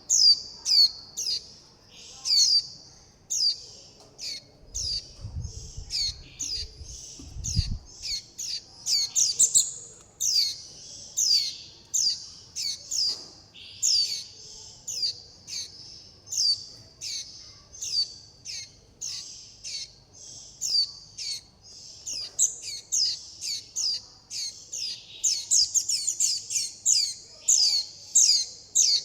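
Fledgling white-eyes begging and contact-calling: short, high, down-slurred chip notes repeated in quick succession, two or three a second, as the young birds call for their parents and for food.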